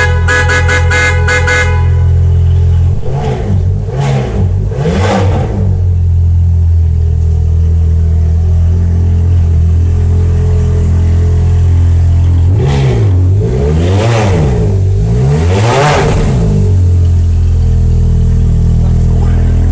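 Ferrari F430's flat-plane V8 idling, then blipped through a quick run of rising and falling revs about three seconds in and another run about halfway through, settling back to idle between. For the first couple of seconds a rapid pulsing beep sounds over the idle.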